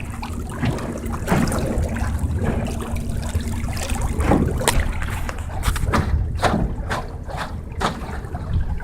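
Water slapping and splashing against a small jon boat's hull as an electric trolling motor pushes it along at top speed, over a steady low rumble of wind on the microphone. A thin steady hum sounds for about the first half, then fades out.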